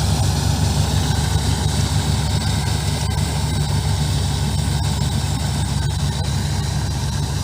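Combine harvester's diesel engine running steadily with a heavy, even low rumble.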